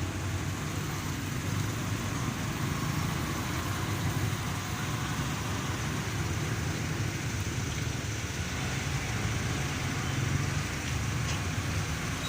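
Steady drone of a truck's engine and road noise, heard from inside the cab while driving.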